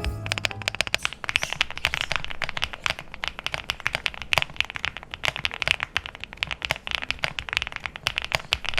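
Fast typing on a Mechanical Bee X80 mechanical keyboard fitted with HMX Honey switches: a dense, uneven run of key clacks.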